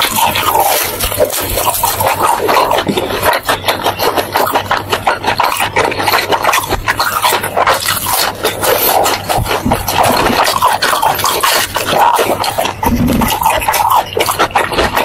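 Close-miked chewing of crispy fried food: a dense, irregular run of crunches and crackles.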